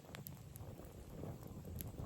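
Campfire of dry dead branches burning, with a few sharp crackles and pops over a low rumble.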